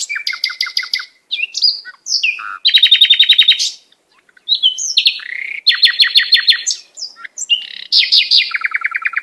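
Songbird singing loud, varied phrases: fast trills of rapidly repeated notes alternating with short slurred whistles, with brief pauses between phrases.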